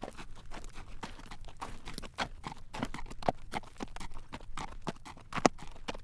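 Horse's hooves clip-clopping at a walk on a road as it draws a carriage, a steady run of sharp clacks with a few louder strikes.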